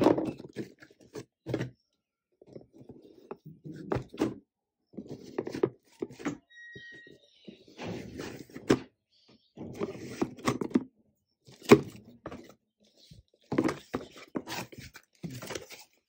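Ceiling-fan parts and packaging being handled during unboxing: irregular knocks, thuds and short rustles of cardboard and plastic, with a sharper knock near the middle.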